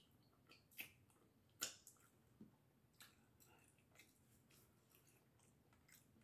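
Faint close-up eating sounds from a seafood boil: scattered soft wet smacks and clicks of chewing and handling the food, spaced irregularly.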